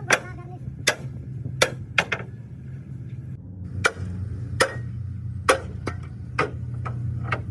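Hammer blows on metal, about a dozen sharp strikes at an uneven pace, over a steady low hum.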